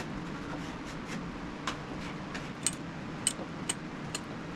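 Light, sharp metal clicks and taps from handling a car door hinge and its newly fitted pin, coming roughly every half second from a little under two seconds in, over a steady low hum.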